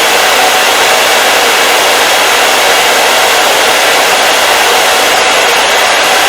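Hair dryer running continuously at a steady speed: an even, loud whooshing hiss of motor and blown air with a faint hum, unchanging throughout.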